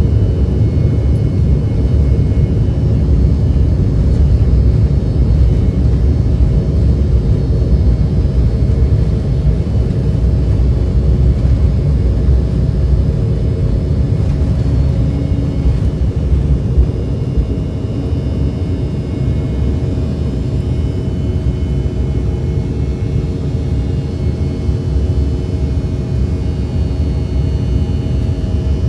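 Jet airliner cabin noise: the steady low rumble of the engines and airflow, with a few faint steady tones above it. The rumble eases slightly a little past halfway.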